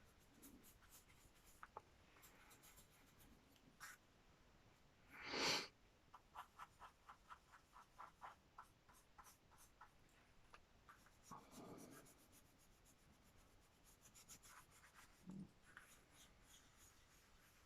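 Faint scratchy strokes of paint being brushed and worked onto a book cover. There is one louder scrape about five seconds in, then a run of quick, even strokes at about four a second.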